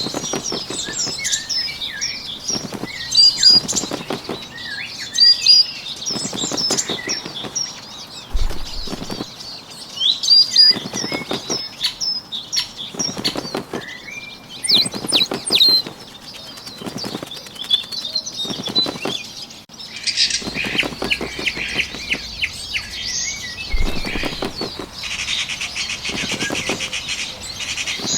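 Small birds chirping and twittering, with short bursts of wing flapping that come about every one and a half seconds. In the last third a denser, steady chatter of high calls joins in.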